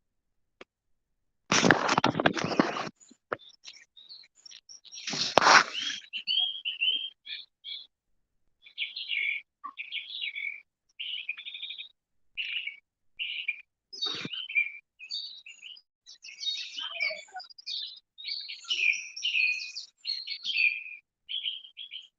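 A songbird singing in quick runs of short chirping notes, heard over a video-call microphone. Near the start, two loud bursts of noise come about two and five seconds in.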